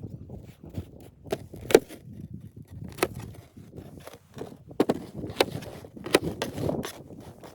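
Irregular sharp knocks and crunching sounds, about eight distinct strikes spread unevenly over several seconds, the loudest a little under two seconds in.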